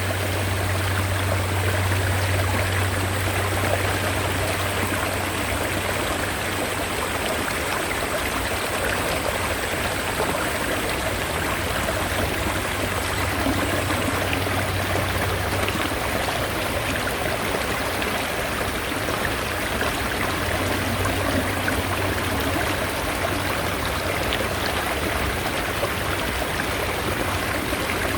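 Mountain stream water running steadily, an even rushing and trickling with no breaks.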